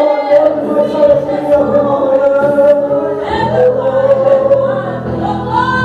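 Voices singing a gospel worship song together, holding long sustained notes; a low steady accompaniment joins about three seconds in.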